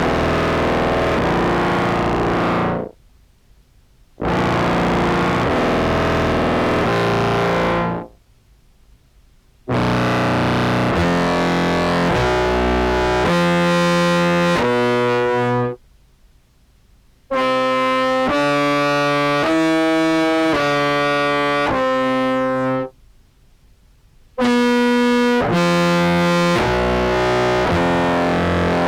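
Contrabass clarinet played through an octave pedal mixing several octaves and into an octave fuzz, giving a thick distorted tone. It comes in five phrases of a few seconds each with short breaks between, the notes changing within each phrase.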